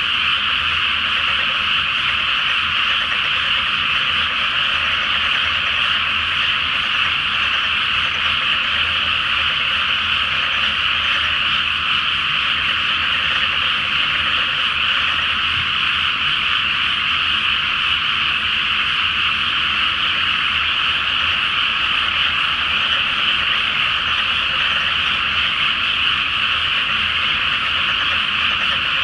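A chorus of many frogs calling at once, a dense, steady wall of croaking with no pauses.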